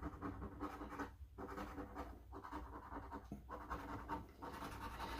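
Scratch-off lottery ticket being scratched off: faint scraping in short runs, pausing about once a second.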